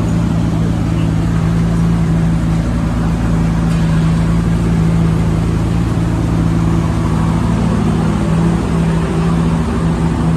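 Drift car engine idling steadily, a constant low hum with no revving.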